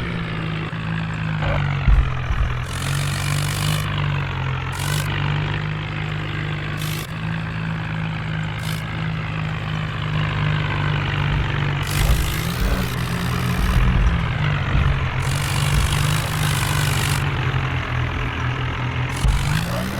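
Tractor engine running steadily, its pitch lifting briefly a few times as the revs rise and settle, with occasional bursts of rushing hiss over it.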